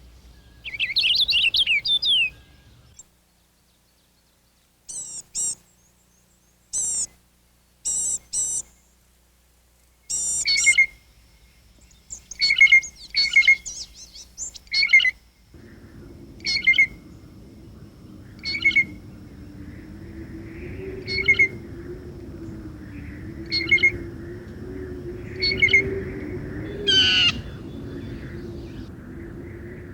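Songbirds singing and calling: a fast warbling phrase at the start, then a string of short, repeated chirps. From about halfway a low, steady hum runs underneath them.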